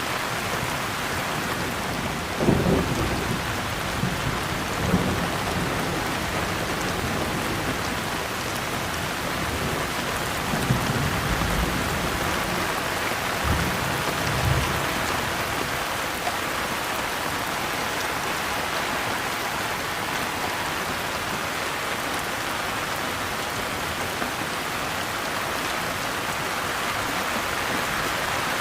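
Steady, dense rain hiss, with short low rumbles of thunder breaking through a few times, about three and five seconds in and twice more around the middle.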